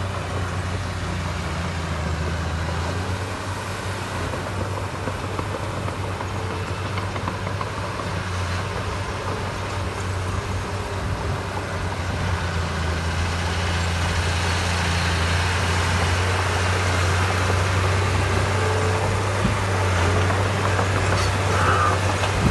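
Diesel engine of heavy earthmoving equipment running steadily with a low drone, growing louder in the second half.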